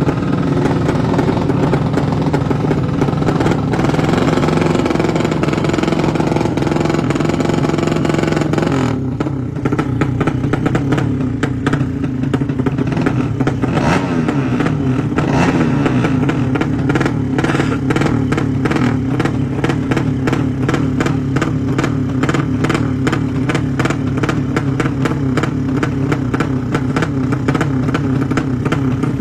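Racing motorcycle engines running and revving loudly, with rapid exhaust pulses. The sound changes about nine seconds in, turning to a choppier pulsing run.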